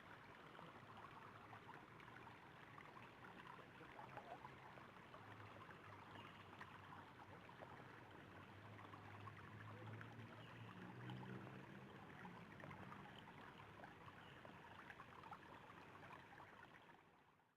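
Faint, steady running water of a mountain stream. A faint low hum joins it in the middle, and the sound fades out at the end.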